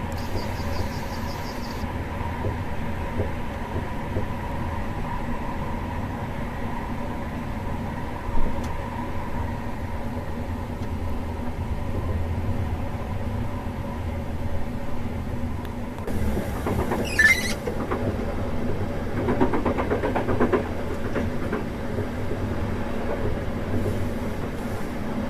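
InterCity2 passenger train running on the rails with a steady rumble and a faint steady hum. There is a single sharp knock about eight seconds in, a brief wavering squeal around two-thirds of the way through, and then a short stretch of rapid clatter.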